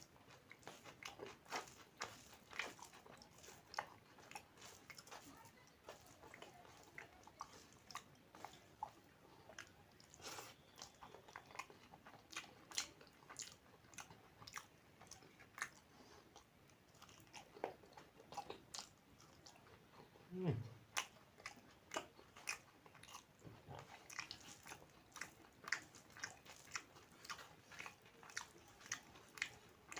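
A person chewing food close to the microphone: irregular, wet, crunchy mouth clicks and bites throughout. About twenty seconds in there is a brief low hum that falls in pitch.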